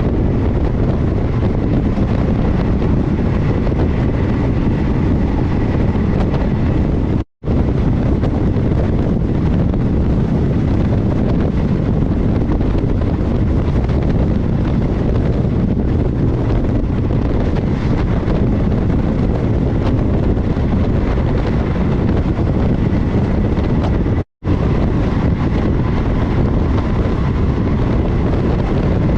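Steady, loud rumble and rush of a moving passenger train, with wind buffeting the microphone. The sound cuts out for an instant twice.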